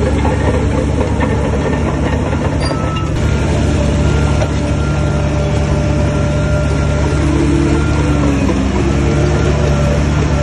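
Heavy diesel engine of a Shantui bulldozer running steadily, its pitch dipping briefly about eight seconds in before it picks back up.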